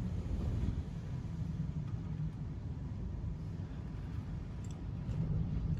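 A steady low rumble with a faint hiss above it, even throughout.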